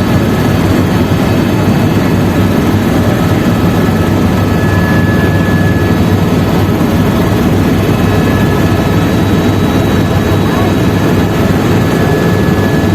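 Helicopter engine and rotor noise: a steady, loud drone that does not change.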